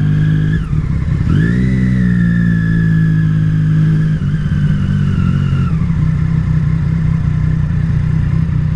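Motorcycle engine running under the rider, picking up revs a little over a second in, holding there, then easing back down in two steps and settling to a steady note.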